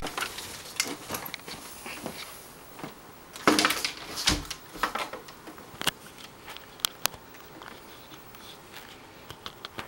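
Camera handling noise and footsteps with scattered clicks and knocks, and a louder scrape ending in a thump about three and a half to four and a half seconds in.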